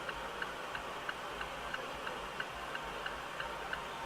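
A car's indicator flasher ticking steadily inside the cabin, about three clicks a second, over a low engine and road hum.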